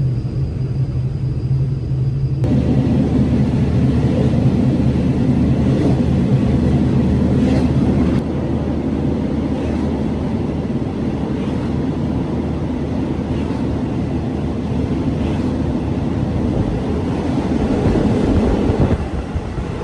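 A passenger train running on the rails with a loud, steady low noise. The noise gets suddenly louder about two and a half seconds in and shifts again near eight seconds.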